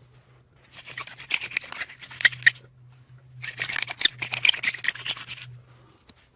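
Two wooden sticks rubbed hard back and forth against each other to start a fire by friction: fast scraping strokes in bursts of about two seconds, with a short pause between bursts.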